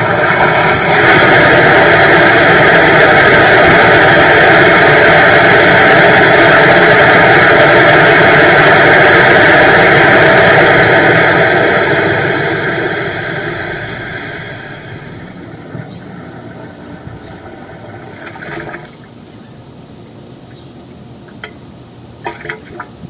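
Sewer jetter running loud and steady, its engine and high-pressure water noise fading away between about twelve and fifteen seconds in, leaving a quieter background with a few short knocks near the end.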